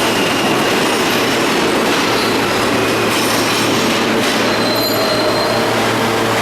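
R160 subway train running on the track, a steady loud rush of wheel and rail noise with thin wheel-squeal tones, a brief high squeal about four and a half seconds in.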